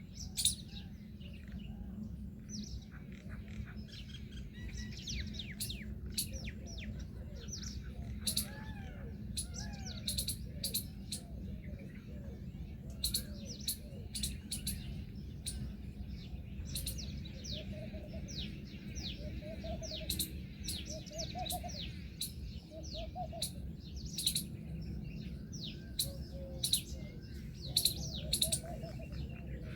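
Several birds calling: many quick, high chirps throughout, with a series of lower arched calls in the second half, over a steady low rumble.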